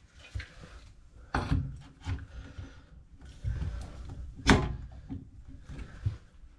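Knocks and clunks of parts and tools being handled during pipe fitting, with two sharper knocks about one and a half and four and a half seconds in, the second the loudest.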